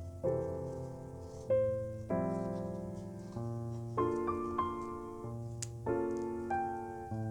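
Background music: a soft piano playing slow chords, each struck and left to ring away, with one faint click near the end.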